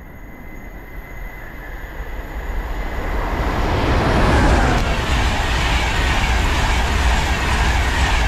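InterCity 225 train, hauled by a Class 91 electric locomotive, approaching and running past: a rushing noise that grows louder over the first three seconds, then holds steady and loud.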